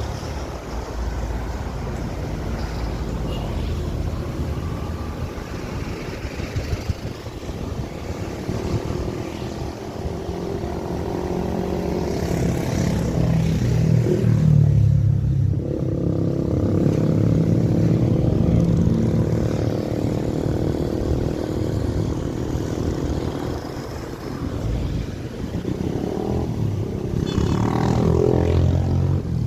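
Truck engine running under load, its note climbing and holding higher through the middle, then easing and picking up again near the end.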